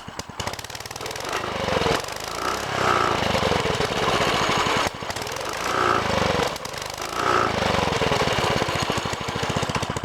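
Baja DB30 minibike's 97cc four-stroke single-cylinder engine running cold, revved up and down several times.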